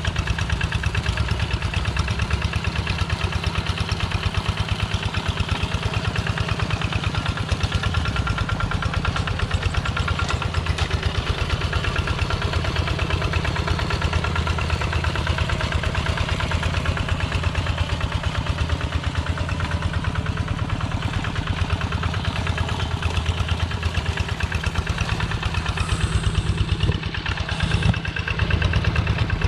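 Single-cylinder diesel engine of a Kubota Quick G1000 two-wheel tractor running steadily with a fast, even thudding beat. It dips briefly near the end, then picks up again.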